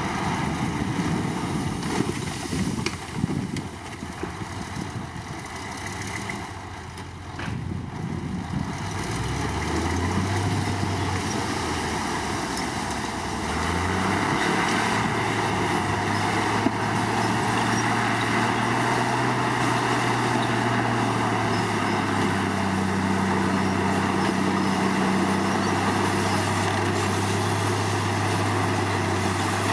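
Komatsu D53 crawler bulldozer's diesel engine at work. The first few seconds are a rough, uneven clatter. Then a steady engine note comes in, and it steps up in pitch and loudness a couple of times as the engine speed changes.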